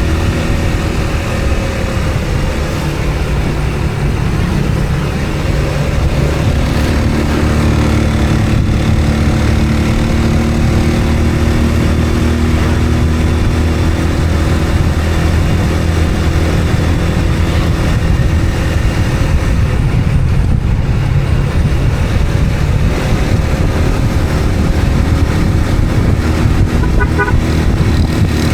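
Road vehicle engine running steadily with road and wind noise while travelling, with a brief high beep near the end.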